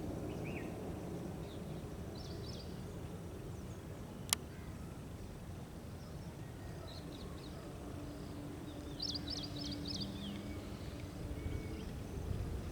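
Outdoor ambience: a steady low background hiss and rumble, with small birds giving short, high chirping calls in brief clusters several times. A single sharp click sounds about four seconds in.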